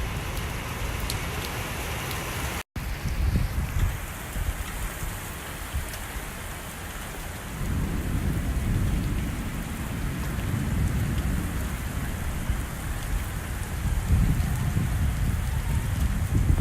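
Heavy rain pouring and pattering on surfaces, with a low uneven rumble underneath that swells about halfway through.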